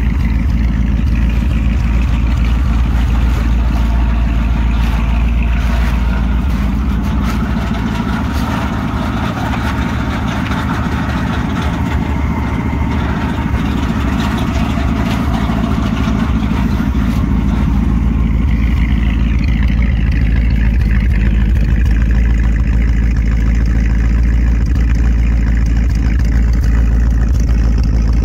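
1979 Chrysler New Yorker's V8 engine running at a steady idle, an even low hum.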